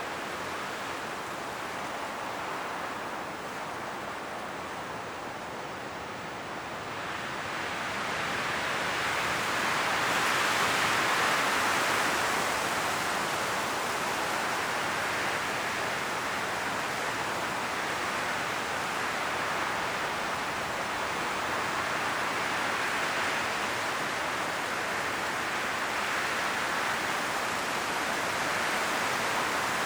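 Strong wind blowing through forest trees, leaves rustling in a steady rush that swells in gusts, growing louder about eight seconds in.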